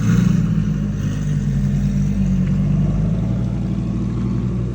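Twin-turbocharged Audi R8 V10 engine idling steadily after a start, a little louder about the first half-second.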